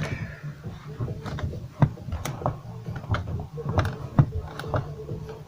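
Lada Granta door check clicking and knocking irregularly as the door is swung back and forth, its arm freshly rubbed with bar soap to stop a squeak.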